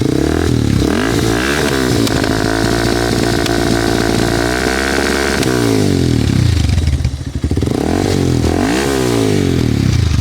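Bajaj Pulsar 220's single-cylinder engine revved loud through an aftermarket Yoshimura tri-oval exhaust. The revs climb and are held high for a few seconds, fall back about six seconds in, then rise once more and drop near the end.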